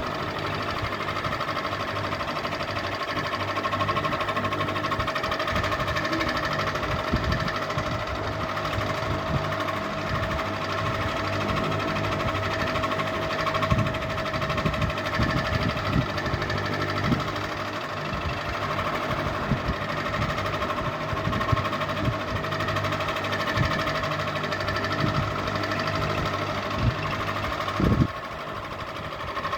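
Ceiling fan running with a steady whine and irregular low knocks and rattles, one louder knock near the end.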